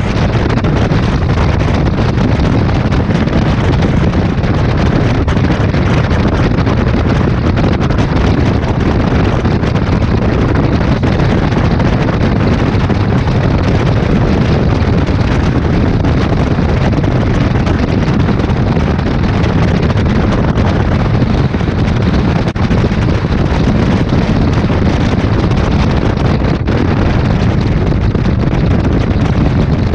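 Steady running noise of a Mumbai suburban EMU local train at speed, heard from an open doorway, with wind buffeting the microphone.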